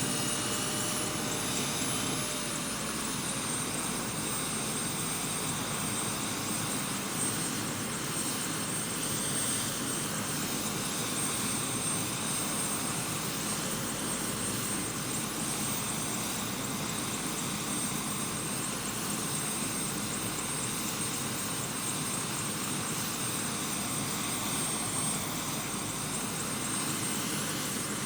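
Helicopter running steadily, a dense, unbroken noise with a high thin whine above it that dips slightly in pitch about two seconds in.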